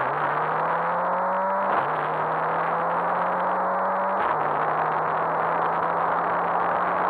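Volvo 240 Turbo rally car's turbocharged four-cylinder engine heard from inside the cabin under hard acceleration. Its pitch climbs and drops abruptly at upshifts right at the start and at about two seconds, then holds fairly steady. Dense road and cabin noise runs underneath.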